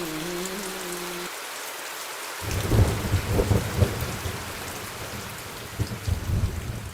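Steady rain, with rolling thunder rumbling in low from about two and a half seconds in and again near the end.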